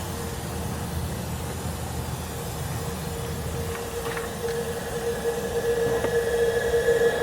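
A small motor running with a steady hum and a high whine, getting louder over the last couple of seconds.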